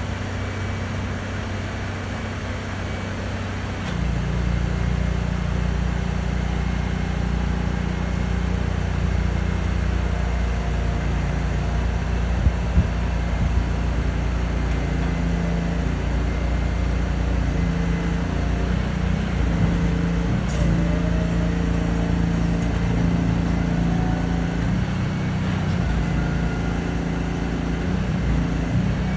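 Truck engine running steadily, stepping up louder about four seconds in and shifting in pitch as the PODS container is loaded onto the truck, with two short clicks about halfway through.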